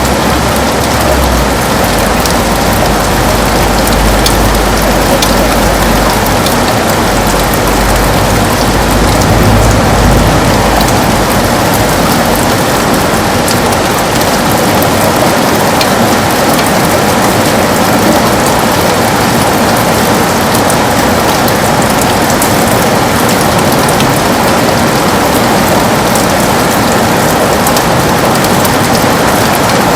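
Heavy rain on a window: a steady, dense hiss with many small drop ticks. A low rumble sits underneath for roughly the first ten seconds, then fades away.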